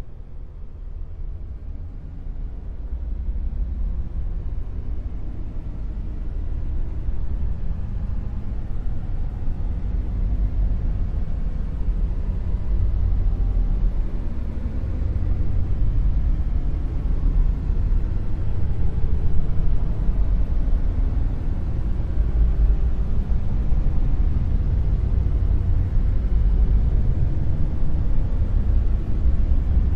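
Dark noise: an even, deep rumble of noise with most of its weight in the bass and little treble, growing louder over the first few seconds and then holding steady.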